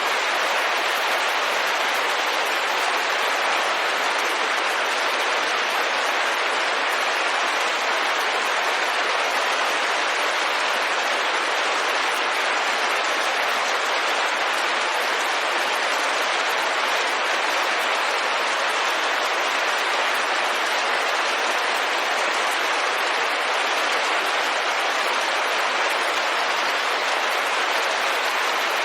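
Steady, even rain falling on a window, a continuous dense patter with no single drops standing out.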